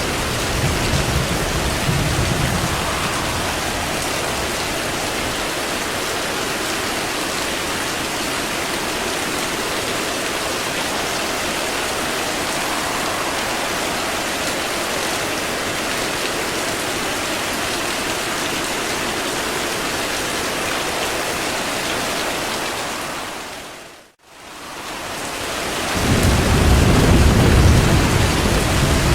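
Steady heavy rain with low rolls of thunder in the first couple of seconds and again near the end. About 24 seconds in, the sound fades out almost to nothing and straight back in, like the join of a looped recording.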